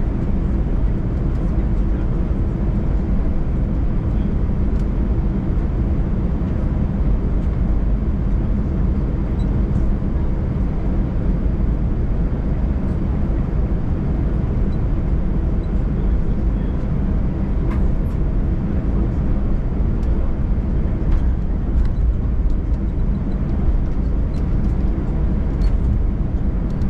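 Jet airliner engine and airflow noise heard inside the passenger cabin: a steady, even low rumble with no rise or fall.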